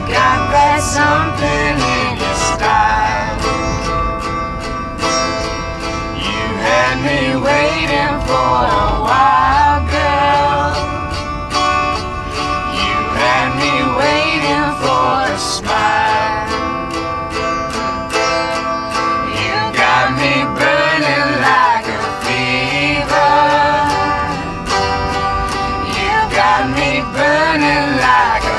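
A small band playing live: strummed guitar with sung vocals carrying a melody.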